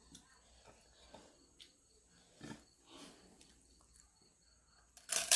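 Faint eating sounds: soft chewing and mouth noises with small clicks. About five seconds in, a sudden loud burst of noise.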